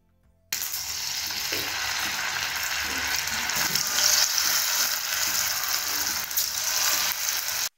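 Batter-coated mushroom pieces deep-frying in hot oil in a pan, sizzling steadily with fine crackles. It starts abruptly about half a second in and cuts off suddenly just before the end.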